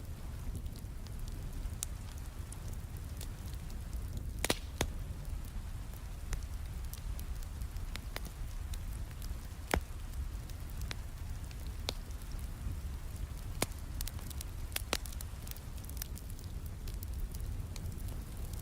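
Wood fire in a fireplace crackling, with scattered sharp pops every second or so, a loud pair about four and a half seconds in and another near ten seconds, over a steady low rumble.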